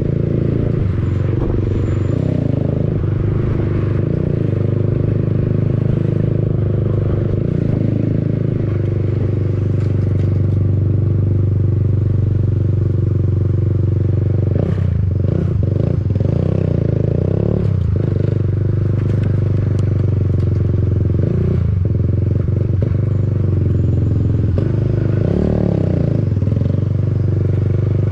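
Motorcycle with an aftermarket exhaust running steadily, its engine note holding a fairly even pitch with a few brief changes in the middle and near the end.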